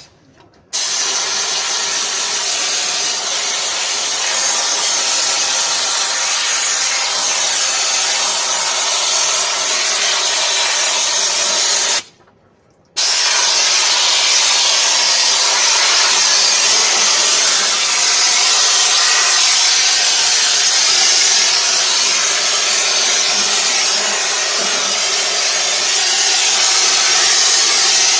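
Pressure washer jet spraying a steady hiss against a truck wheel rim, cutting out briefly twice: once just after the start and again about twelve seconds in.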